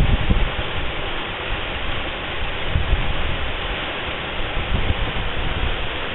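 Waterfall pouring steadily, a loud even rushing, with uneven low buffeting beneath it.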